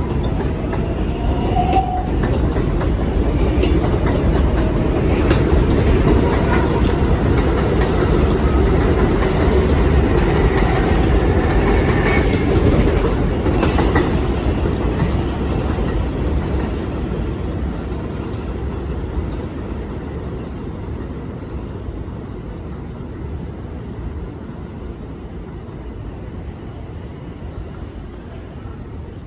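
New York City Subway 4 train running through the station, with a steady rumble and wheels clattering over the rail joints. It fades steadily as it moves away over the second half.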